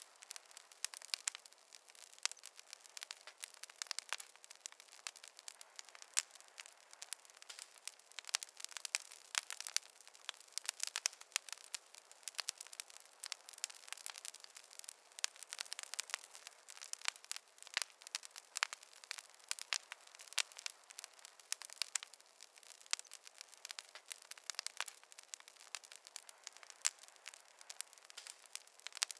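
Wood fire crackling: many small irregular pops and snaps, a few sharper ones, over a soft steady hiss.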